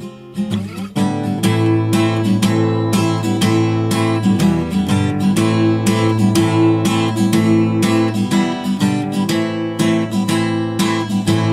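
Acoustic guitar strummed in a steady rhythm, chords ringing, as an instrumental break in a song with no singing. The strumming thins out briefly just after the start, then comes back fuller.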